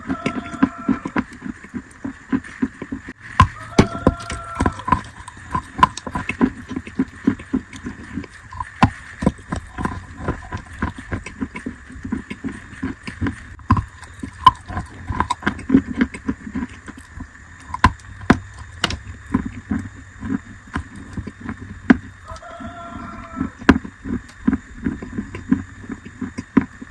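Close-miked chewing of wet chalk: a continuous run of sharp, irregular wet crunches.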